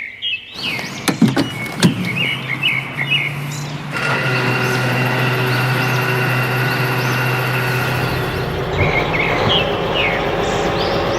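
Birds chirping with a couple of sharp clicks. About four seconds in, a truck engine starts running with a steady hum, and the birds chirp again near the end.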